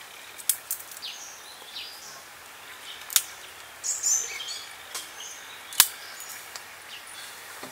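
Small birds chirping in short calls that fall in pitch, with a few sharp snaps from dry twigs being gathered and broken; the loudest snap comes about six seconds in.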